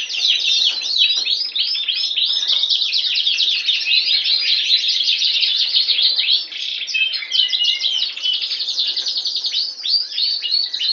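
Border canary singing: a continuous, high-pitched song of rapid trills and chirps, with a brief dip about six seconds in before it carries on.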